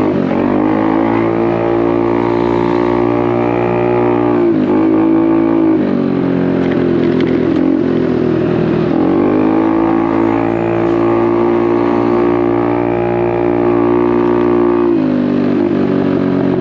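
Honda Navi's small single-cylinder engine through a Vance & Hines exhaust, running steadily under throttle on the move. The pitch sags briefly three times, a little after four seconds in, around nine seconds and near the end, as the throttle is eased and opened again, and the revs climb back each time; the CVT has swapped clutch and contra springs and 11-gram sliders, so it picks up at any throttle position.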